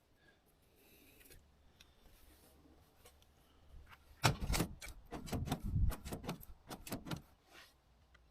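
A quick, irregular series of metallic clicks and knocks lasting about three seconds, starting about four seconds in, from the dry throttle and shift linkages of a Mariner 30 hp outboard being worked and oiled by hand.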